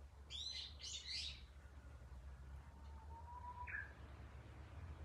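Wild birds calling outdoors. A loud two-part chirping call comes about half a second in, and a fainter long whistle ending in a short note comes past the middle, over a steady low hum.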